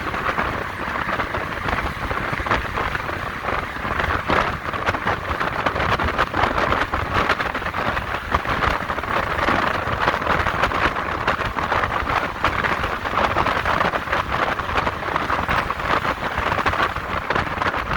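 Steady rush of wind and road noise over the microphone of an electric motorcycle riding in traffic, with no engine note.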